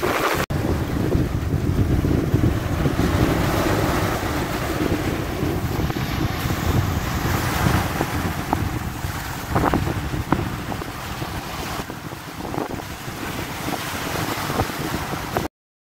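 Wind buffeting the microphone over the wash of sea water, a dense rumbling noise that cuts off suddenly near the end.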